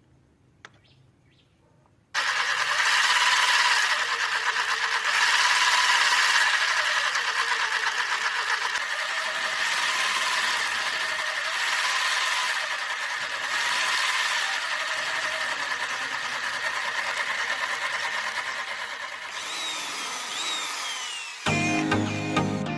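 Small electric motor driving a homemade PVC gearbox model: a steady high-pitched whir with a rattle, starting suddenly about two seconds in. Near the end the pitch falls as it spins down, and background music comes in.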